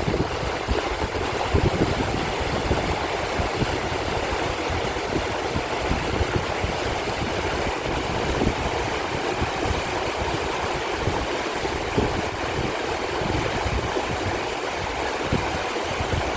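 Mountain stream water rushing steadily, with irregular low buffeting of wind on the microphone.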